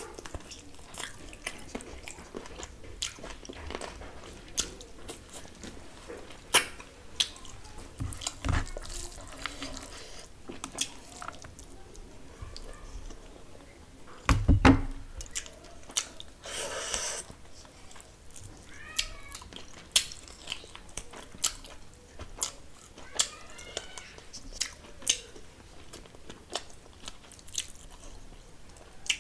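Close-miked chewing and wet mouth sounds of a person eating rice and mutton curry by hand, with frequent sharp smacking clicks. Two dull thumps fall about a third of the way in and about halfway through.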